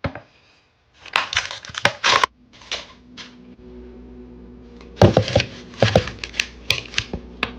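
Kitchen handling noises: irregular clicks, clatter and short rustling bursts. A steady low appliance hum starts about two and a half seconds in.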